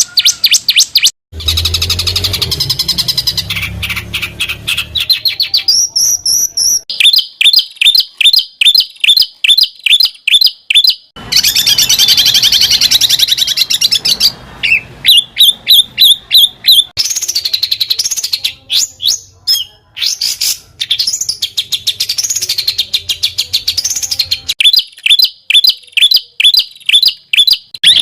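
Songbird song of the kind used for training caged songbirds: fast runs of sharp, closely repeated high notes and quick rising-and-falling trills. The song switches abruptly from one phrase type to another several times.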